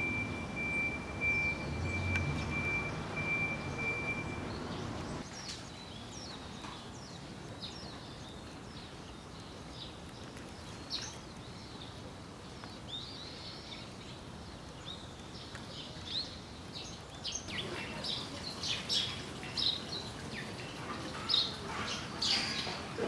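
Birds chirping with short, scattered calls that grow busier and louder toward the end. Over the first few seconds there is a low background rumble and a steady, high pulsing tone.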